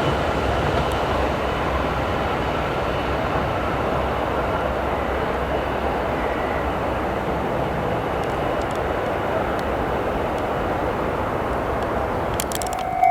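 Electric commuter train running past on the JR Hachiko Line, a steady rail and wheel noise. A few sharp clicks come near the end.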